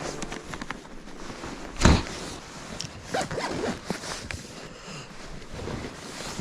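A zipper being pulled in several short scratchy runs, with one louder thump about two seconds in, typical of opening or closing a tent or bag while camping.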